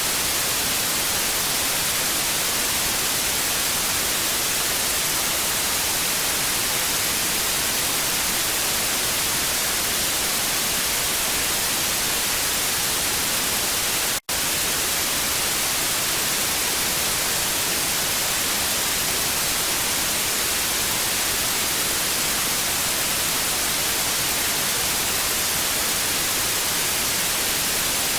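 Television static: a steady, even hiss, brightest in the high frequencies. It is broken once, about halfway through, by a split-second dropout to silence.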